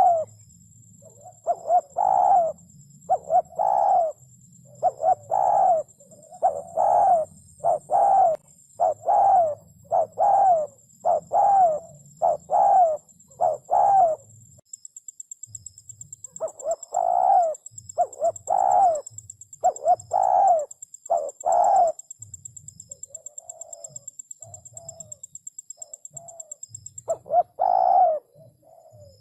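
Spotted dove cooing over and over, about one coo a second, with a short break about halfway and a few softer coos later on.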